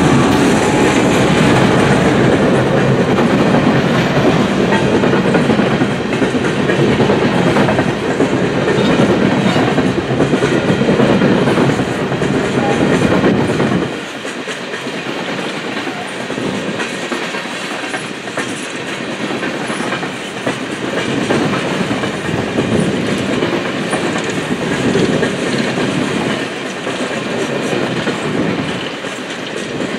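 Coal hopper cars of a long freight train rolling past, steel wheels clattering over the rail joints. About halfway through the sound drops somewhat quieter and loses its low rumble.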